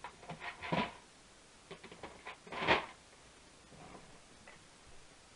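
Rummaging and handling noises: a scatter of light clicks and rustles, the loudest about two and a half seconds in, as small objects are searched through for a key.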